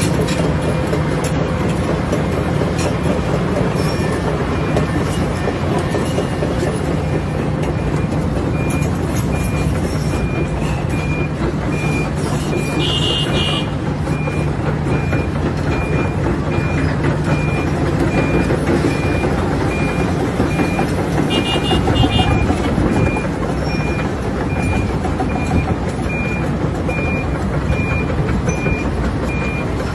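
Excavator engine running steadily while its travel alarm beeps at an even pace, about three beeps every two seconds, starting some eight seconds in.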